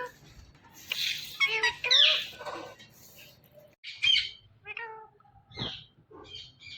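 Green ringneck parrot making a string of short, varied calls with bending pitch, separated by brief pauses.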